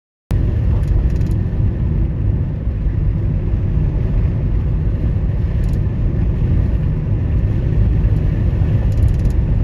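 Car driving, a steady low rumble of road and engine noise that begins abruptly.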